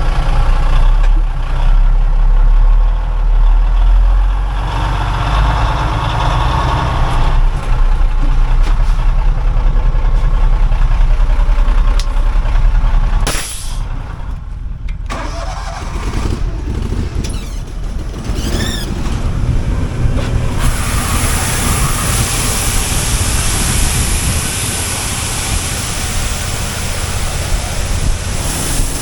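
Old grain truck's engine running with a heavy low rumble. About halfway through the rumble drops off abruptly and gives way to a lighter, steadier noise.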